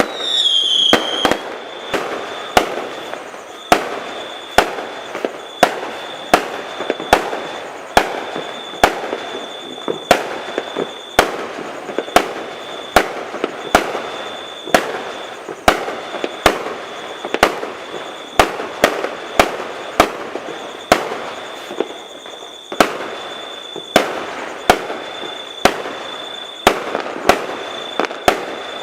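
Fireworks going off without a break: sharp bangs about once a second over a steady crackle. A high whistle comes and goes, with a falling whistle right at the start.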